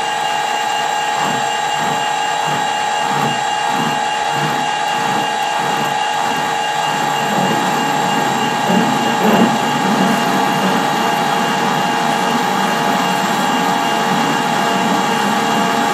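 Metal lathe running with a steady whine as the cutting tool works the bore: a low pulse about twice a second for the first several seconds, then a rougher, louder stretch of cutting about nine seconds in. The cut is plausibly the thread relief being put in after the internal thread was cut.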